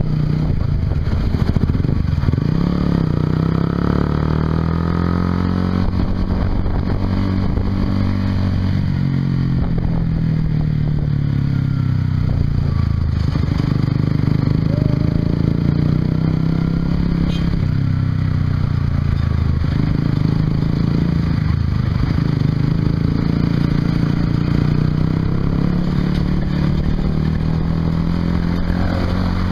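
Honda CBR150R's single-cylinder engine running through an aftermarket Yoshimura exhaust while the bike is ridden. Its pitch rises and falls repeatedly as the engine speed changes.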